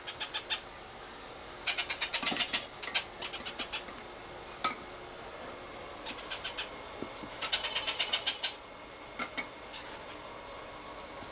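Hand-fed parrot chick begging for food: short bouts of rapid, high-pitched pulsing chatter, repeated every second or two.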